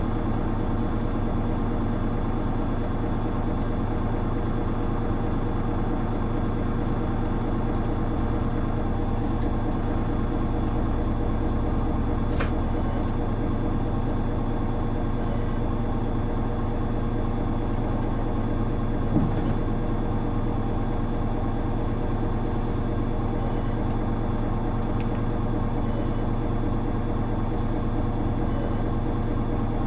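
Diesel engine of a Hino Rainbow HR (KL-HR1JNEE) city bus idling steadily, heard from inside the cabin. There is a sharp click about twelve seconds in and a brief thump just before twenty seconds.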